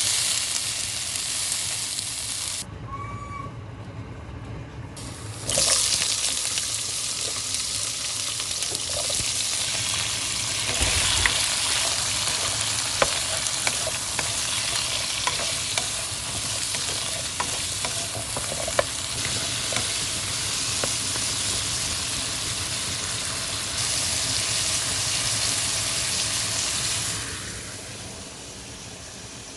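Food sizzling as it fries in a pan while it is stirred, with a utensil clicking against the pan now and then. The sizzle drops away for a few seconds early on, comes back louder, and falls off near the end.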